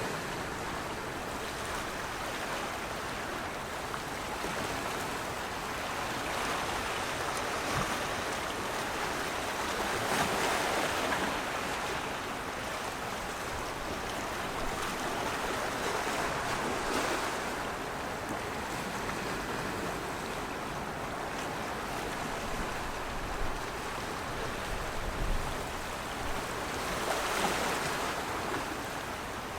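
A steady rush of water that swells louder several times and then eases back.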